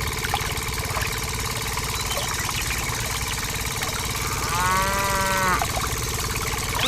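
A cow mooing once, a drawn-out call of about a second, a little before the five-second mark. Under it runs a steady mechanical hum.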